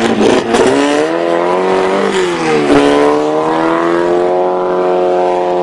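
Drag-racing hot rod's air-cooled flat-four engine revving, with a few sharp pops at the start. Its pitch climbs, drops briefly about two and a half seconds in, then climbs again and holds a steady high note.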